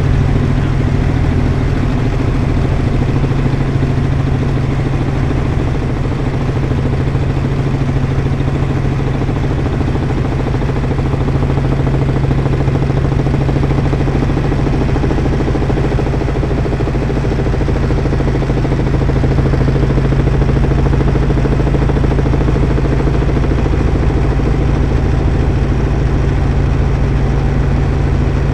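Helicopter running with a steady, unbroken drone of engine and rotor, and a strong low hum throughout.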